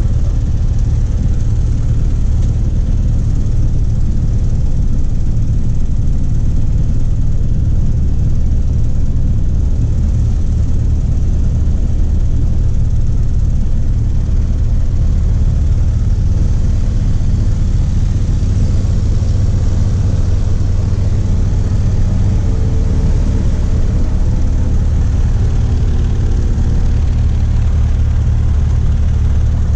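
Cessna 152's four-cylinder Lycoming engine and propeller running steadily, a constant low drone.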